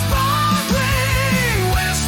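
Energetic J-rock song with electric guitars and a steady drum beat, a melodic lead line bending up and down in pitch.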